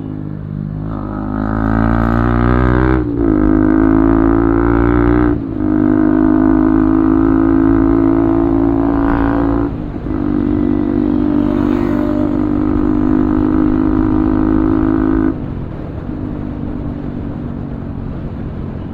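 Bajaj Pulsar 200's single-cylinder engine running through an Akrapovic full-system exhaust while riding: the revs climb in the first few seconds, with short dips at gear changes about three, five and ten seconds in, then hold steady until the throttle eases off about four seconds before the end.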